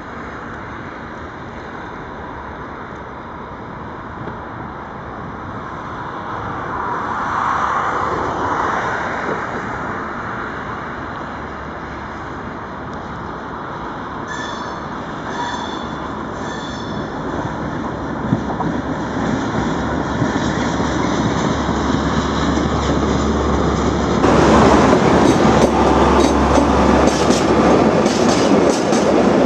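MaK 6400-class diesel locomotive pulling away with a train of tank wagons: the engine running under load and the wagons rolling. There are a few short high wheel squeals about halfway. The wheels clatter louder near the end as the wagons pass close.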